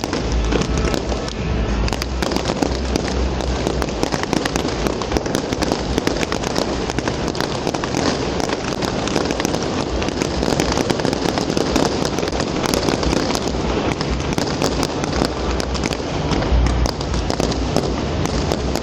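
Fireworks display: a dense, continuous crackle of many small bursts, with deeper low booms in the first few seconds and again near the end.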